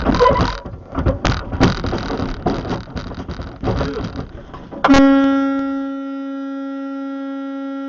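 Clattering road noise with many sharp knocks, then about five seconds in a vehicle horn sounds one long, steady blast that cuts off abruptly.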